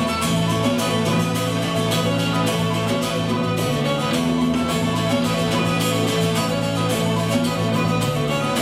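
Instrumental folk music: a fiddle playing over guitar accompaniment, with low sustained tones underneath and a steady quick rhythm.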